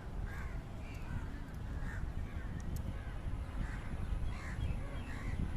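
Birds calling over and over, short calls about twice a second, over a low steady rumble.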